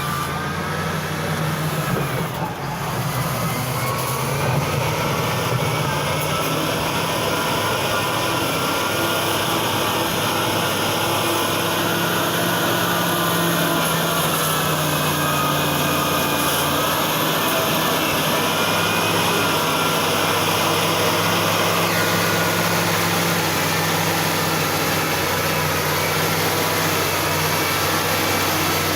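2020 XCMG ZL50GN wheel loader's diesel engine running steadily and loudly, a low drone that builds over the first few seconds and then holds at an even pitch.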